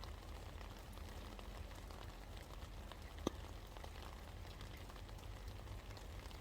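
Steady rain falling, an even hiss with scattered drips and one sharper drop tapping about three seconds in, over a low steady rumble.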